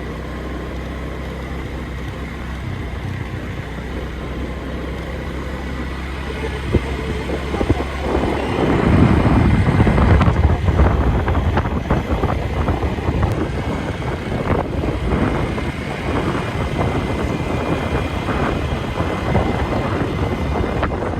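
Motorcycle engine running steadily during a ride, with wind buffeting the microphone. The wind noise grows much louder about eight seconds in and then mostly covers the engine.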